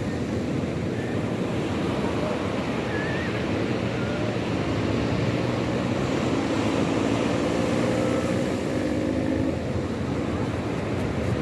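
Sea surf washing on the shore in a steady rush, with wind buffeting the microphone. A faint low hum joins for a few seconds in the middle.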